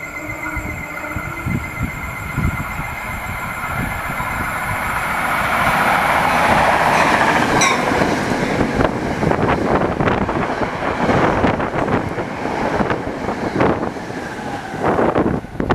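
NJ Transit commuter train of Comet V coaches, pushed by an ALP-46 electric locomotive, passing at about 90 mph. A rush of approach builds over the first several seconds, then a fast clatter of wheels runs as the cars go by, loudest again near the end as the locomotive passes.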